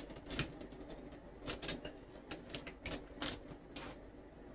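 Faint, irregular light taps and clicks, about a dozen small ones with no steady rhythm.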